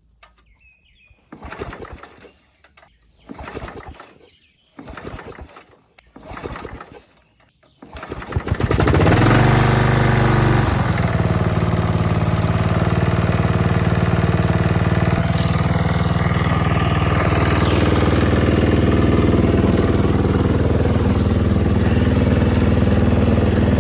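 Small engine of a 1980s Snapper riding mower being cranked in four short attempts, catching about eight seconds in, its speed dipping and settling, then running steadily.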